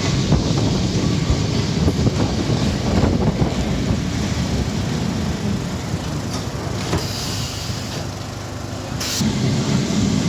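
Streetcar running along its rails: a steady rumble with rattling and knocks, easing slightly near the end. A short hiss comes about nine seconds in.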